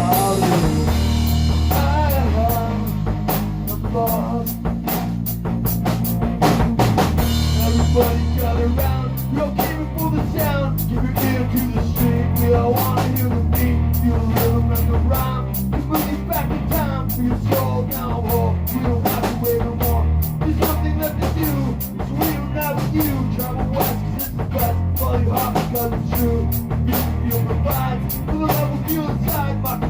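Instrumental rock music: a drum kit keeping a steady beat under bass and guitar, tuned a half step down.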